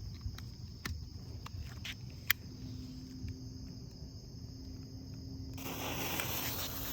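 A few light clicks and one sharp click, then about five and a half seconds in a smoke bomb catches and starts a steady hiss as it pours out smoke.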